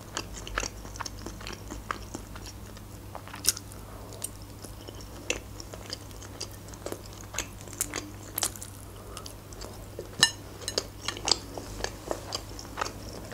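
Close-up mouth sounds of someone chewing fried pelmeni with sour cream: many small wet smacks and crisp clicks at an irregular pace, with a few sharper ones.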